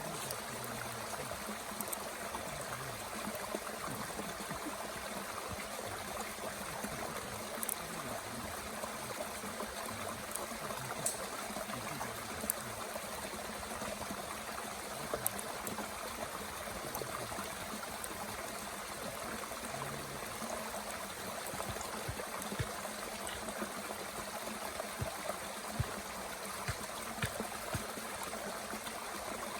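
Mountain stream flowing steadily, with scattered sharp crackles and pops from a small wood fire burning in a Bush Box stove.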